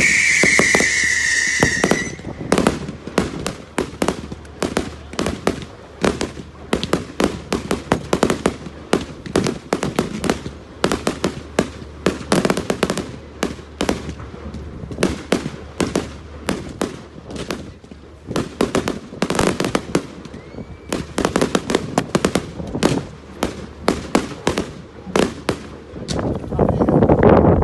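Fireworks: a whistling firework for about two seconds, then a long, irregular run of sharp cracks and bangs, several a second, like crackling firecrackers. Near the end there is a louder rushing burst.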